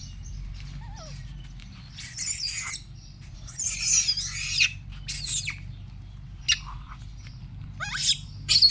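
Young pet monkey squealing in several short, high-pitched bursts with sliding pitch, about two seconds in, twice more soon after, and again near the end, over a low steady hum.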